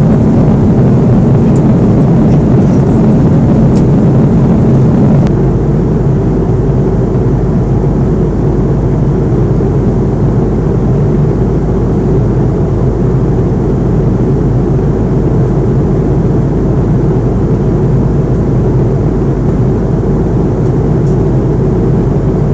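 Airbus A330 jet engines and airflow heard inside the passenger cabin: a steady, loud, low-pitched rumble that drops slightly in level about five seconds in.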